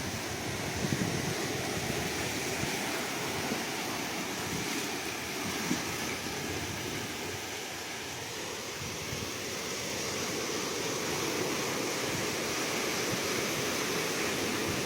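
Sea waves washing on a shore: a steady rush of surf that swells and eases a little.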